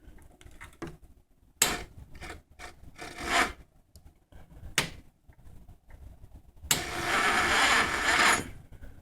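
A GY6 150cc scooter's electric starter tried several times: scattered clicks and short rasps, then a loud rasping grind for about a second and a half near the end, with no engine firing. The engine is not turning over after two to three months of sitting.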